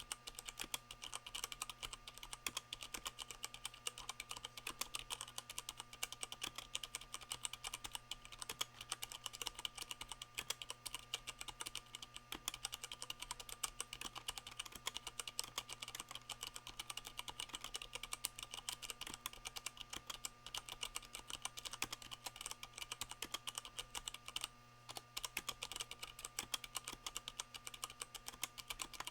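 Fast continuous typing on a Leopold FC660M mechanical keyboard with Cherry MX Brown switches, their keycaps damped by O-rings; a steady stream of keystroke clacks with a brief pause near the end.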